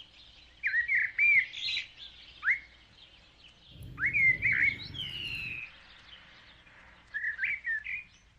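Birds chirping in quick clusters of short sweeping notes, with a longer falling whistle about five seconds in. A low rumble comes in briefly just before the middle.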